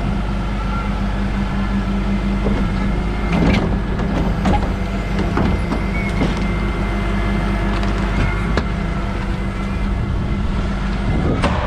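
Rear-loader garbage truck's engine running steadily under hydraulic load, with several sharp metal knocks and clanks from the bin-lift and compaction gear.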